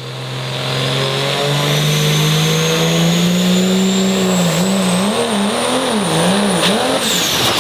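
Diesel pickup pulling a weight sled at full throttle: the engine climbs steadily with a rising turbo whistle, then about four and a half seconds in the revs surge up and down several times as the pull falters. Near the end the throttle is let off and the turbo whistle falls away.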